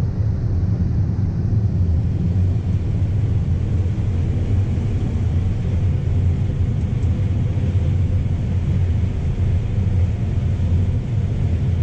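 Large diesel farm machine's engine running steadily, a constant low drone.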